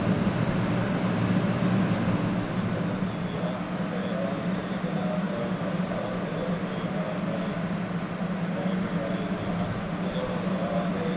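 Steady low hum of a 500 Series Shinkansen standing at the platform, its onboard equipment running.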